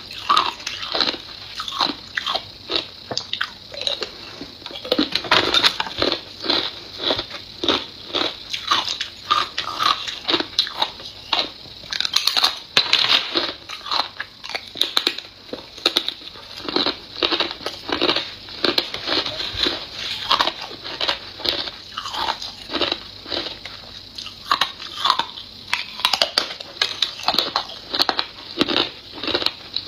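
A person biting and chewing ice, with sharp crunches coming two or three times a second without a break.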